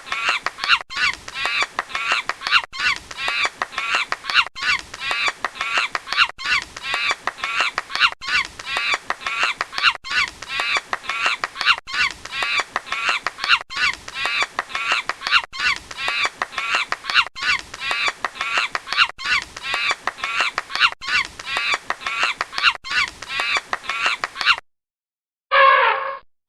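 Many birds calling at once, a short recording repeated over and over about every two seconds. It stops near the end, and after a moment's silence a different sound begins.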